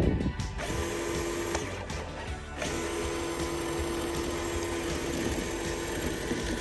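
Small electric motor running with a steady whine: it runs for about a second, cuts out, then starts again about three seconds in and keeps running, over a low rumble.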